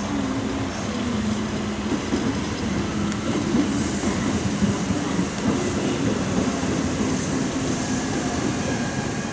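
Kintetsu electric commuter train running past on the rails: a steady rumble of wheels with a low wavering hum and a few sharp clacks as the cars pass.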